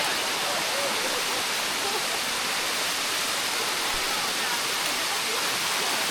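Water flowing down a limestone cascade, a steady even rush.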